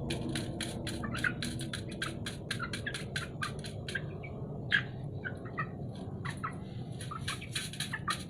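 Young village chickens pecking rice grains: a fast, uneven run of sharp taps, several a second, with a few short chirps mixed in. The pecking thins out for a few seconds after the middle, then picks up again.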